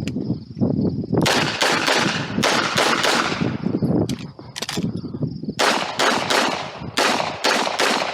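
Handgun shots fired through a competition stage, well over a dozen in about eight seconds. They come mostly in quick pairs, with brief pauses between groups of shots.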